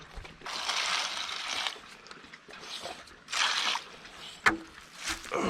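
Water splashing in two spells, as a dog's water is being changed. A single sharp knock follows about four and a half seconds in.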